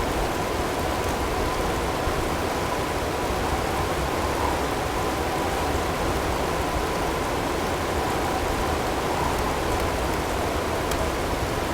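Steady blizzard noise of wind-driven snow and hail, an even hiss with no gusts, over a faint steady high tone.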